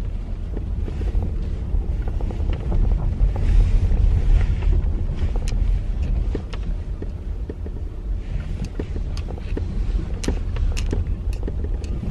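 Car running slowly on a snowy driveway, heard from inside the cabin: a steady low rumble of engine and tyres, with scattered sharp ticks and clicks that come more often in the second half.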